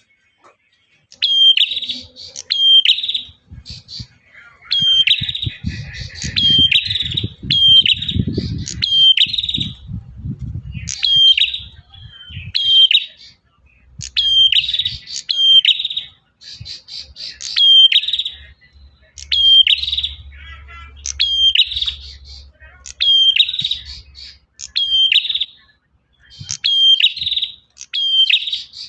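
Male prinia (prenjak) calling: short, sharp chirps repeated in quick groups of two or three, over and over with brief pauses, a persistent call used to lure birds in. A low rumble sits under the calls for several seconds about a third of the way in.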